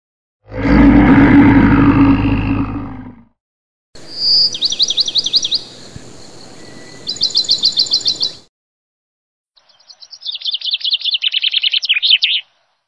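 Small birds singing in fast, high, repeated chirps and trills, in separate runs separated by short gaps, after a louder, lower sound that lasts about three seconds near the start.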